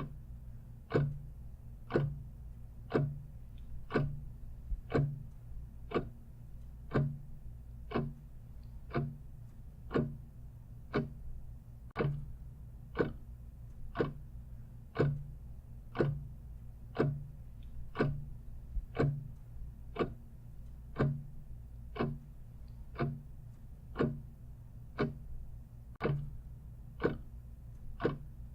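Clock ticking steadily, one tick a second, over a faint low hum.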